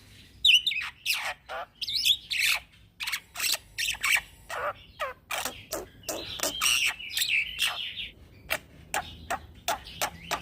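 Young black-winged starling (jalak putih) singing continuously, a rapid string of sharp, harsh notes with a stretch of scratchy chattering about six seconds in.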